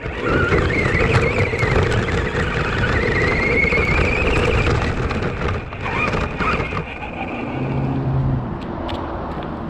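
Radio-controlled Arrma Granite 4X4 monster truck driving, its electric motor whining higher and lower with the throttle over the noise of its tyres on the ground.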